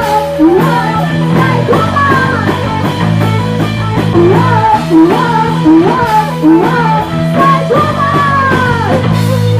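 Live rock band playing an instrumental passage: electric guitar phrases with bent notes, repeating about once a second, over steady bass and drums.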